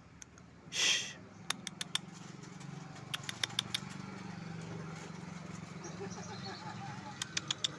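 Sogon songbird calling: one harsh rasping note about a second in, then quick bursts of short, sharp chipping notes, four or five at a time, repeated three times, over a steady low hum of distant traffic.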